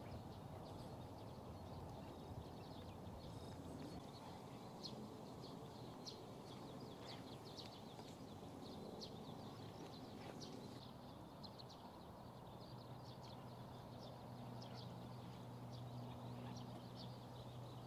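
Faint outdoor ambience: scattered short, high bird chirps over a low rumble. A steady low hum comes in about two-thirds of the way through.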